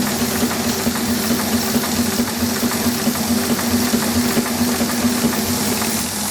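The steady hum of an electric blower on a 6-inch scale Burrell steam traction engine, the overriding noise, over hiss and the light, fast ticking of the engine running. The big-end knock is gone now that the big-end bearings have been tightened with their wedges.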